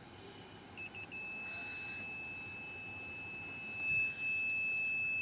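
Multimeter continuity tester beeping: two short chirps, then a steady high beep held for about four seconds and louder near the end. The beep shows a short on the IC's 3.3 V supply line.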